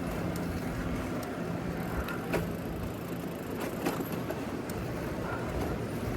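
City street traffic noise with a steady low hum, and a few sharp clicks about two and a half and four seconds in.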